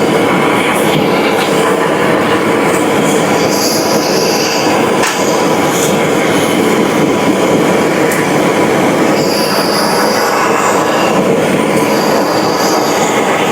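Loud, steady rumble and clatter of heavy machinery, with high metal-on-metal squeals that rise out of it three times.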